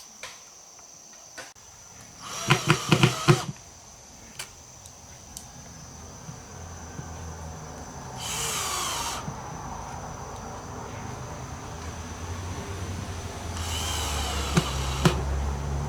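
Power drill running in three short bursts, the first with a rapid pulsing rattle. A low steady hum rises toward the end.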